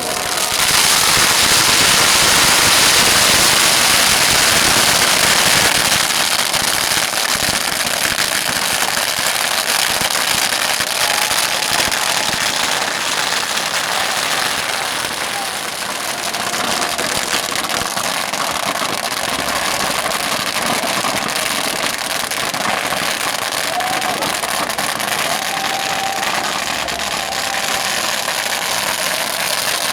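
Bonfire burning with a dense, steady crackle of popping wood, a little louder in the first few seconds.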